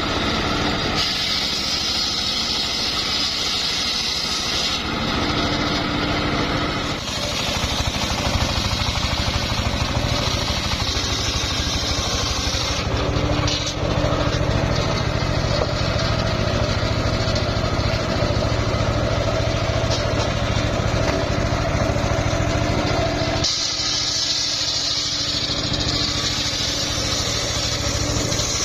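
A home-built engine-driven circular sawmill running as its blade rips a log of old, somewhat hard mahogany. It makes a continuous drone whose tone shifts several times as the load on the blade changes.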